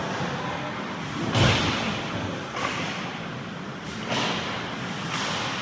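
Ice hockey game sounds in a rink: a loud thud about one and a half seconds in and two lighter knocks later, over a steady arena hubbub.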